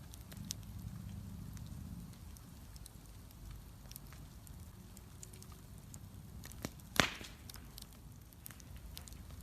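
Bonfire crackling, with scattered small snaps and one loud pop about seven seconds in.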